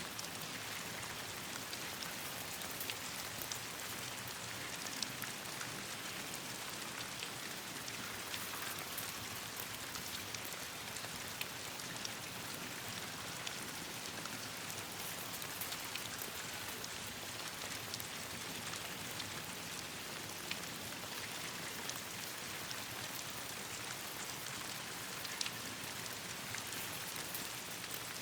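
Steady rain falling on leaves and branches: an even hiss with many scattered sharp ticks of drops.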